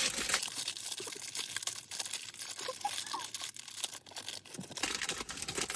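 A snack packet being torn open and crinkled by hand: a run of irregular rustling and crackling.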